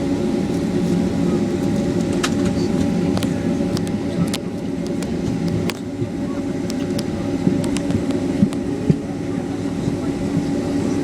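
Boeing 767-300 cabin noise on the ground: a steady hum of the jet engines at low power, with a held whine and scattered light clicks and rattles from the cabin.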